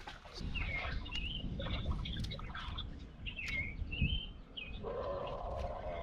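Birds chirping in short repeated calls, over a steady low rumbling noise.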